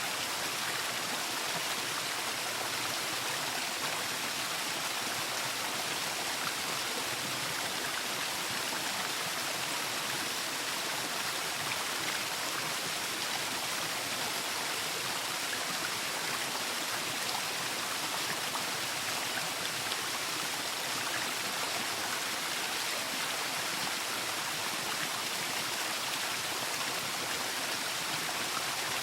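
Waterfall: water falling and rushing in a steady, even hiss with no change in level.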